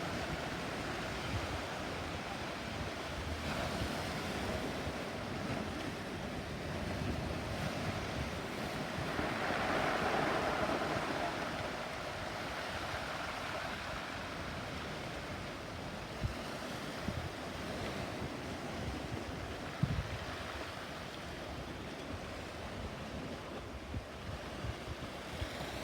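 Sea waves washing with wind blowing on the microphone: a steady rushing noise that swells about ten seconds in, with a few brief low wind buffets later on.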